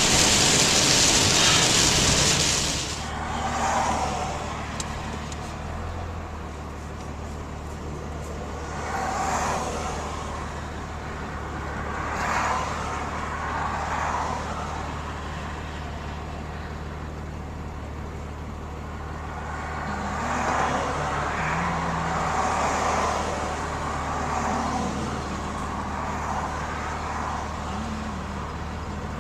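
Truck driving on a wet road, heard from inside the cab: a loud hiss of rain and tyre spray cuts off about three seconds in, leaving a steady low engine drone with road noise that swells and fades several times.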